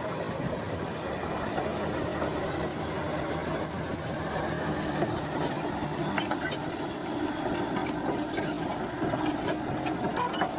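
Heavy diesel earthmoving machinery running steadily, with scattered sharp clicks and clanks.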